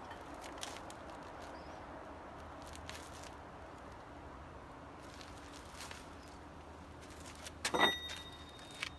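Quiet handling noises of work on a motorcycle's rear wheel area, with a few light clicks, then a louder clank that rings briefly about eight seconds in.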